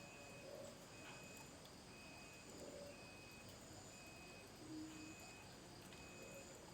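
Near silence, with a faint short high chirp repeating evenly about once a second.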